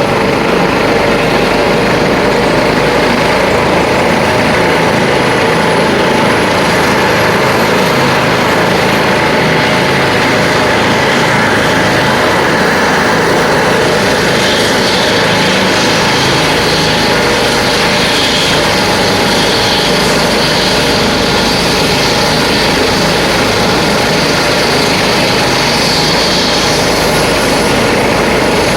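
ADAC rescue helicopter running on the ground: its turbine engines and rotor make a loud, steady sound, with a faint high turbine whine climbing in pitch over the first dozen seconds as it spools up for takeoff.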